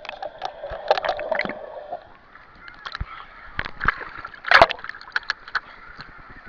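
Wave-pool water sloshing and splashing, with a string of sharp splashes and one louder splash about four and a half seconds in.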